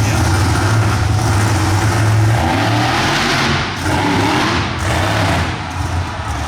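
Monster truck engine running and revving with a strong low drone; about two and a half seconds in the drone eases and a wide rushing noise takes over for a couple of seconds.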